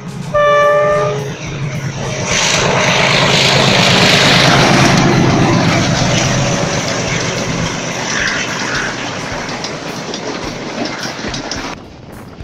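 Diesel locomotive sounds one short horn blast, then the passenger train passes close by: a steady low engine drone under the rush and clatter of wheels on rails, building to its loudest a few seconds in and slowly fading. Near the end the sound drops suddenly to a quieter rumble.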